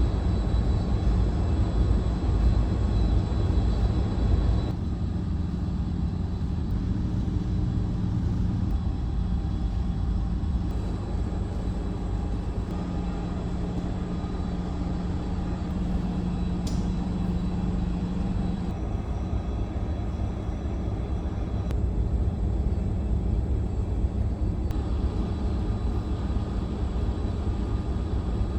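Steady low drone of the car ferry New Kunisaki's engines heard aboard, with a faint steady high whine over the rumble. The sound changes abruptly several times, as between different spots on the ship.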